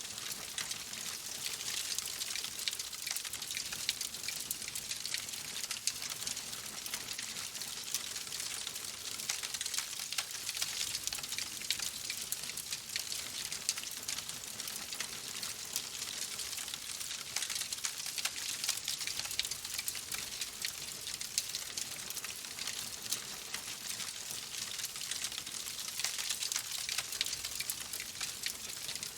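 Wood fire crackling in a fireplace: a continuous dense patter of small snaps and pops over a soft hiss, steady throughout.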